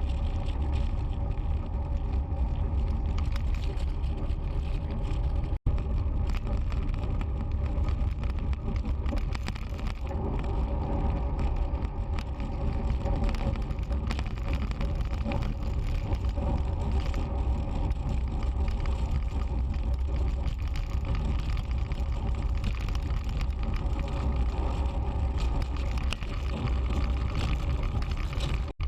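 Wind rumble and road noise on a bicycle-mounted GoPro Hero 3 while riding, with a running rattle from the bike that the rider takes for the gear cables knocking against their casing. A brief dropout about five and a half seconds in.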